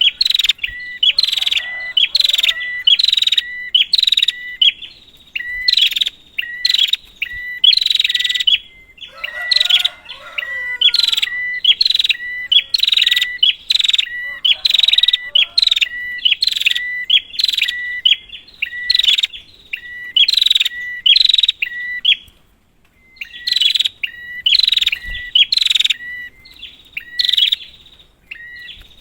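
Prinia (prenjak) calling in a fast, steady series of sharp chirps, about two a second, with a brief pause about three-quarters of the way through. This is a lure call used to provoke a silent prenjak into singing.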